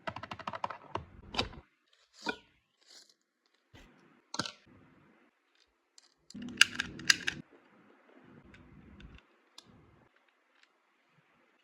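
Packaging being handled and opened: a quick run of clicks at the start, then scattered taps, knocks and rustles, with a louder clatter of clicks a little past the middle.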